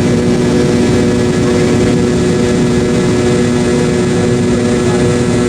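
Steady jet engine noise of an MD-88's rear-mounted Pratt & Whitney JT8D turbofans heard inside the passenger cabin, a constant rush with a low steady hum beneath it.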